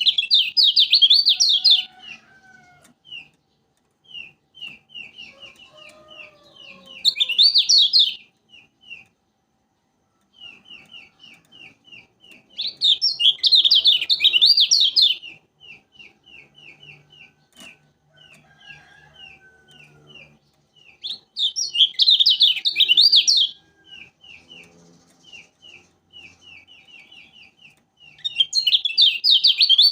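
A kecial kuning, a Lombok white-eye, calling: long runs of short, quick chip notes, about four to five a second, broken by loud, rapid warbling phrases of about two seconds, five times over (at the start, around 7–8 s, 13–15 s, 21–23 s and at the end).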